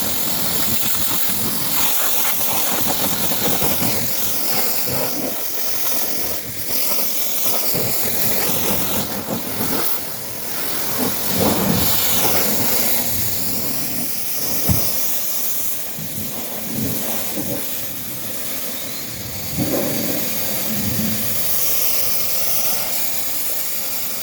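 Steady, loud hissing of a high-pressure jet spraying during a car wash, with a few short knocks, the sharpest about fifteen seconds in.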